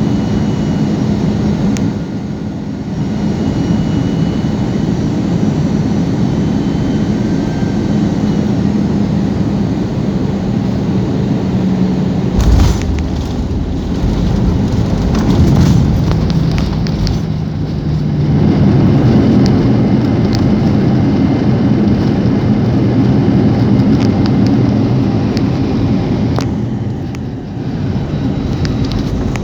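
Airliner cabin noise during a landing: steady engine and airflow noise, a sudden thump about twelve seconds in, then a louder rushing stretch for several seconds as the plane slows.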